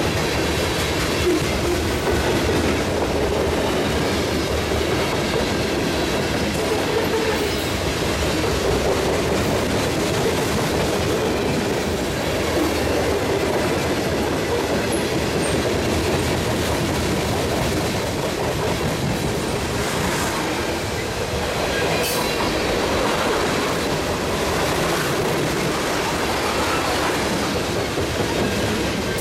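Freight train of covered hopper cars rolling past close by: a steady noise of steel wheels running on the rails, with one brief sharp high sound about three-quarters of the way through.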